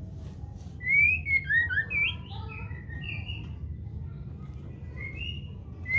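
White-rumped shama singing: a quick run of clear, gliding whistled notes about a second in, then a few shorter phrases later, over a low steady hum.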